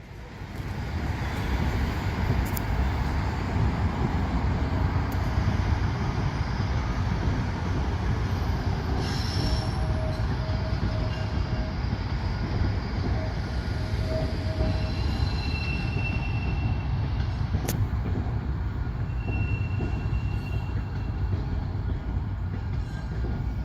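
Baltimore Metro Subway train moving on the rails with a steady low rumble and thin, intermittent wheel squeals. A single sharp click comes about three-quarters of the way through.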